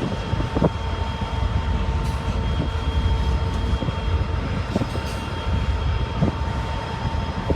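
Freight train cars rolling past: a steady low rumble with a steady thin tone running through it, and a few sharp clacks, several seconds apart.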